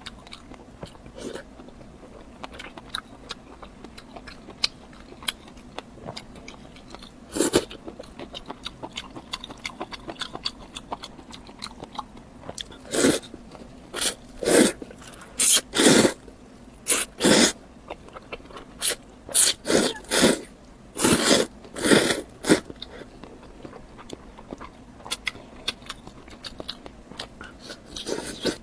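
Close-miked eating: soft chewing and small wet mouth clicks, then a run of loud, short crunching bites and chews, about a dozen of them, from a little under halfway through to about three quarters of the way, before it settles back to quiet chewing.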